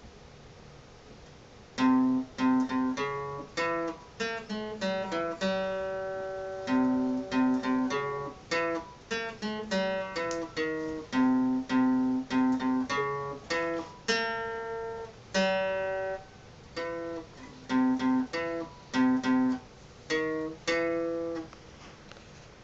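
Acoustic guitar picking a quick melody one note at a time, with some notes left ringing longer. The playing starts about two seconds in and stops shortly before the end.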